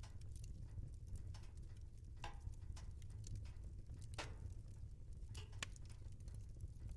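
Fire crackling in a fireplace: irregular snaps and pops over a low, steady rumble of burning, with a few louder pops about two, four and five and a half seconds in.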